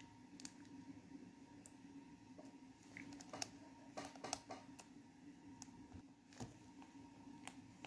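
Faint, scattered clicks and taps from a small plastic electrical plug being handled and screwed back together, over a low steady hum. The clicks bunch together around the middle.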